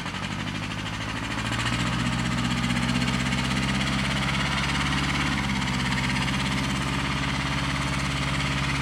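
Tractor engine running steadily, picking up and getting louder about a second and a half in, then holding an even pace.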